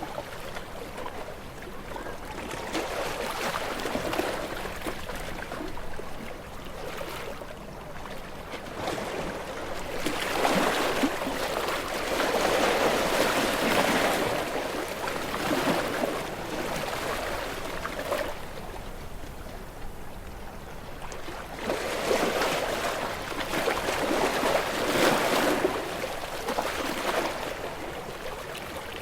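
Sea waves washing against rocks: a steady surf noise that swells twice, about ten seconds in and again a little past twenty seconds, each time easing back down.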